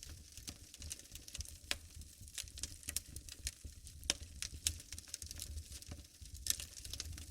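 Wood fire burning in a fireplace, crackling with irregular sharp pops and snaps, a few louder ones about four and six and a half seconds in, over a low steady rumble.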